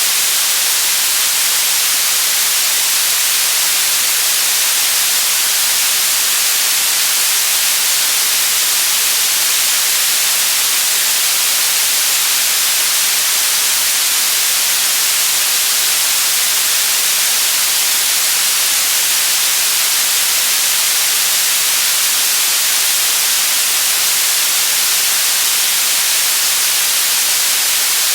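Steady generated white noise: an even hiss, strongest in the treble, with no change in level.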